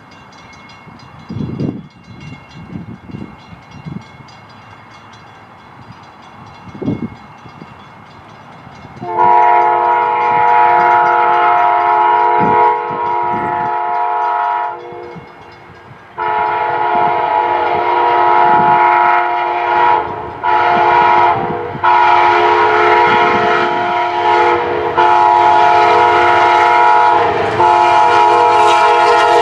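Diesel locomotive's multi-chime air horn sounding for an approaching train: one long blast about nine seconds in, a short pause, then a longer run of blasts broken by brief gaps. Before the horn, a faint rumble with a few low thumps.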